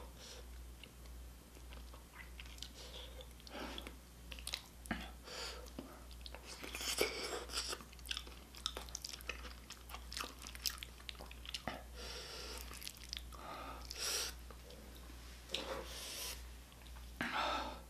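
Close-miked chewing of spicy stir-fried octopus, with scattered wet clicks and smacks of the mouth and a steady low hum underneath.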